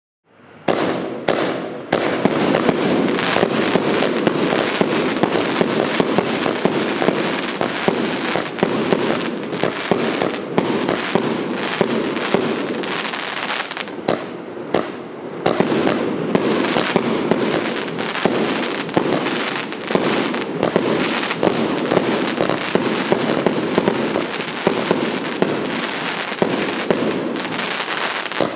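Evolution Fireworks 2730 Snowstorm 2.0, an 80-shot compound firework cake, firing a dense, rapid stream of shots that starts about half a second in and runs without a break. It thins briefly about halfway.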